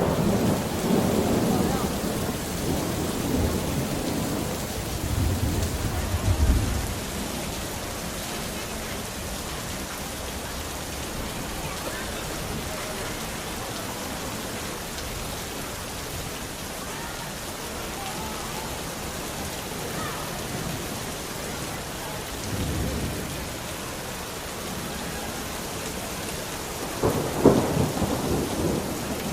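Steady heavy rain with thunder: a long rolling rumble in the first several seconds, a softer rumble about three-quarters of the way through, and a louder, sharper clap rumbling out near the end.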